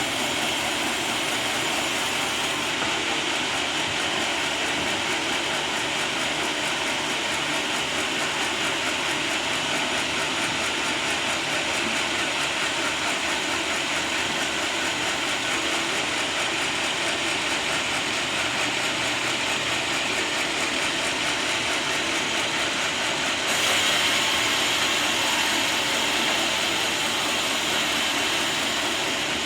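Sawmill saw cutting through a teak log, a steady dense mechanical noise that grows louder and brighter about three quarters of the way through.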